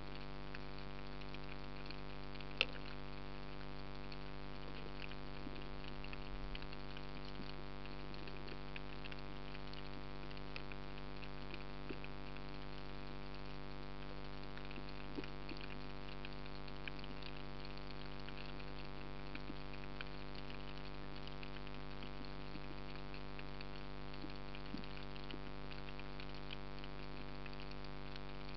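Underwater ambience: a steady hum with a faint crackle of small scattered clicks, and one sharper click about two and a half seconds in.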